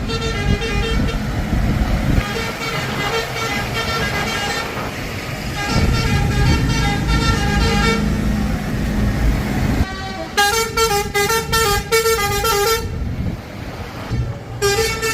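Tractor horns tooting in quick runs of short notes at shifting pitches, loudest and densest a little past two-thirds of the way through, over the low running of tractor engines.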